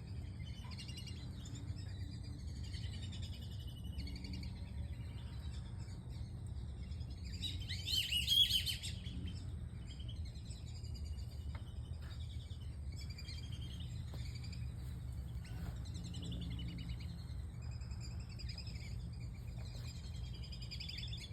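Birds chirping all through, in many short high calls, with a louder flurry of rapid chirps about eight seconds in, over a steady low hum.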